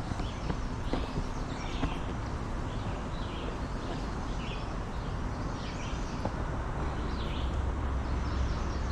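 Wind blowing through trees as a steady rush, with a low rumble of wind on the microphone that strengthens near the end. A bird chirps over it repeatedly, about once a second.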